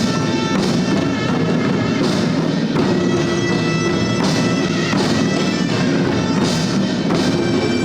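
Korean traditional ensemble music accompanying a Jindo drum dance: a reedy wind instrument holds long notes over irregular drum strokes.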